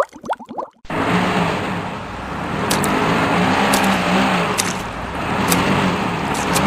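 An engine running steadily with a low hum and a few sharp clicks. It starts about a second in, after a brief gap.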